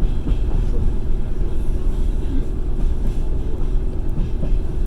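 Passenger train running along the track, heard from inside the carriage as a steady low rumble of wheels on rails.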